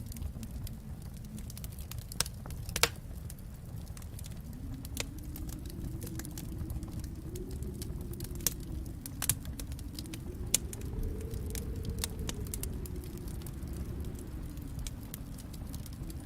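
Wood fire in a fireplace crackling, with a handful of sharp pops scattered through, the loudest about three seconds in. Beneath it runs a low rumble that slowly swells and fades.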